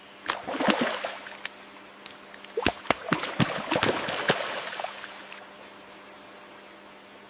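Water splashing and gurgling in a series of short bursts with sharp clicks over the first four or five seconds, then only a faint steady hiss.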